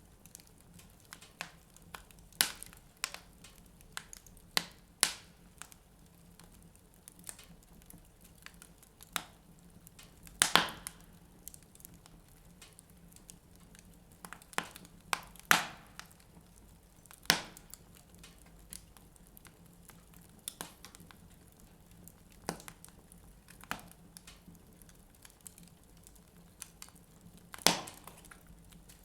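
Wood fire burning in a fireplace, crackling with irregular sharp snaps and pops. A few louder pops stand out, scattered through.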